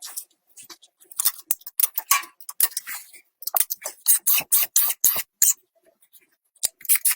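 A quick, irregular run of short scraping and rustling sounds, clustered in the first two thirds, pausing about a second before the end and starting again.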